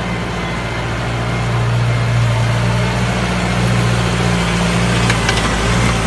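Tractor engine running steadily, getting a little louder about two seconds in, with a couple of faint clicks near the end.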